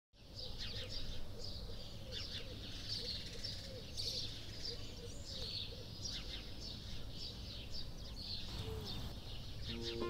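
Birds chirping and calling in a dense chorus of short, high chirps and trills, with a lower note repeated in series, over a low steady rumble. Music comes in right at the end.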